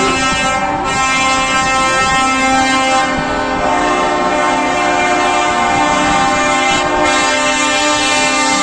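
Truck air horns blaring, several held at once in a loud, unbroken chord whose notes shift a couple of times.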